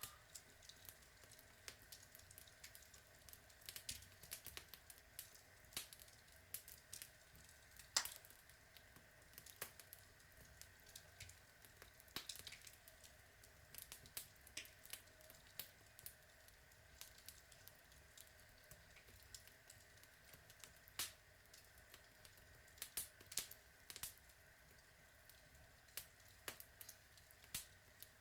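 Outdoor log fire crackling: frequent small, irregular pops and snaps from the burning wood, with one sharper pop about eight seconds in.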